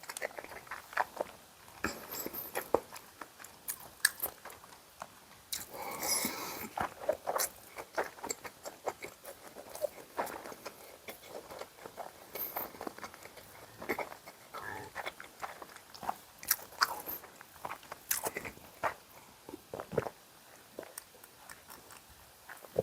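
Eating sounds: a person biting and chewing food, many short wet mouth clicks throughout, with a denser patch around six seconds in.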